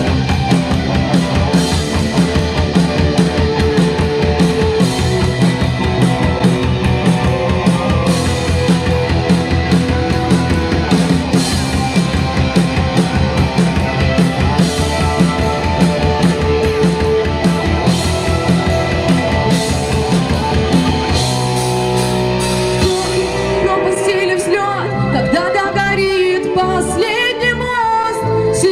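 Rock band music: drum kit and electric guitar drive along steadily, then the drums drop out about three quarters of the way through, leaving held chords with a wavering melody line over them.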